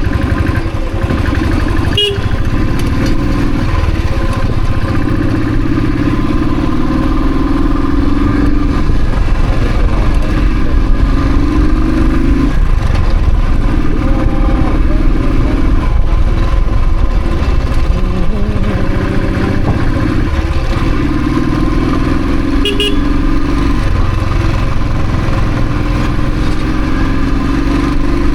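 Royal Enfield Thunderbird's single-cylinder engine running under way, its pitch rising over stretches of a few seconds and dropping back several times as the bike accelerates and shifts, over a steady low rumble of wind and road.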